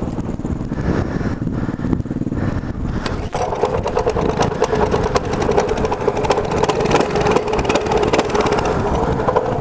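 Mini bike's small engine running under way as it is ridden, with many short clicks and knocks over the top. The engine note settles to a steady pitch about three seconds in.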